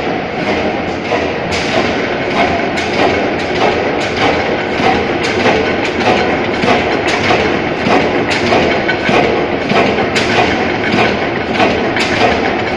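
Bates & Scholes stationary oil engine running, beating out a steady, even rhythm of knocks, a few beats a second.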